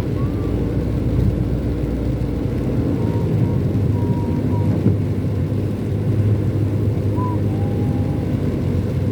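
Steady low rumble of a car's engine and tyres heard from inside the moving vehicle, with a few faint, brief high tones above it.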